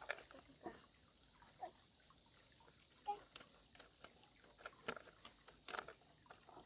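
Steady, high-pitched chirring of an insect chorus, with scattered light clicks and knocks, the sharpest about five seconds in.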